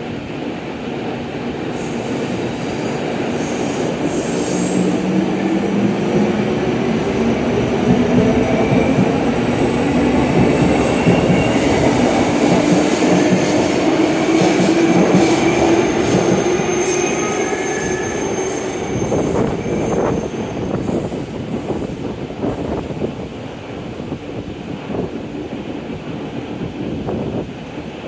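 JR Kyushu 783 series limited express electric train pulling away and gathering speed. Its traction motors give a hum that rises steadily in pitch, with some high whistling from the wheels. In the second half the wheels click rhythmically over rail joints as the train passes and the sound fades.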